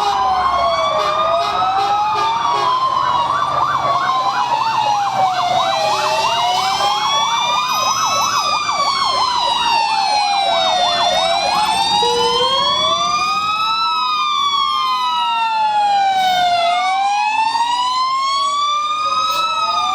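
Several fire engine and ambulance sirens sounding at once, their wails slowly rising and falling out of step with each other. From about two seconds in to about seven seconds, one of them switches to a fast yelp, several sweeps a second.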